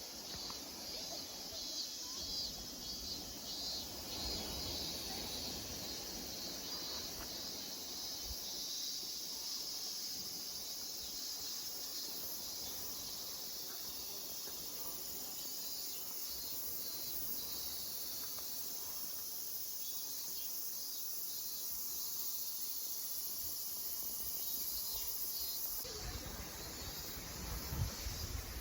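Steady high shrill of an insect chorus outdoors, with some low rumbling and a few bumps near the end.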